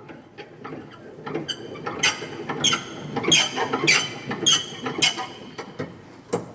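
The hand crank of an old Aronson welding positioner's manual tilt being turned, its gearing squeaking and grinding in a steady rhythm of about six strokes, a little under two a second, in the middle of the stretch.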